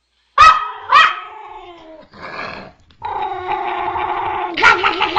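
A dog barks twice sharply, then gives a shorter call and a long, drawn-out growl from about three seconds in that wavers and breaks into more sharp calls near the end.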